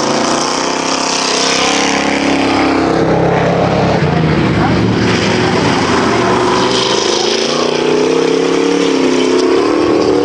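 Several V8 stock car engines racing around an oval, running hard, their pitch rising and falling as the cars accelerate and pass. The pitch climbs again toward the end.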